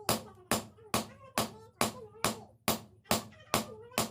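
Hammer blows on metal in a steady rhythm, about two and a half a second, each with a short ring, as in hand forging at a blacksmith's; a voice talks faintly between the blows.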